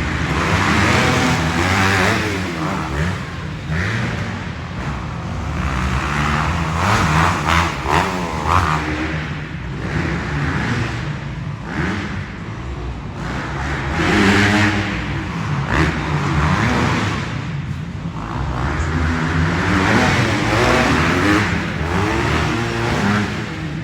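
Motocross dirt bike engines revving hard and backing off again and again, pitch rising and falling every second or two, as the bikes race around an arenacross track.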